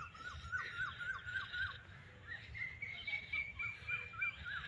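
Birds calling: a quick string of short rising-and-falling notes, about four a second, with a higher note held for about two seconds in the middle.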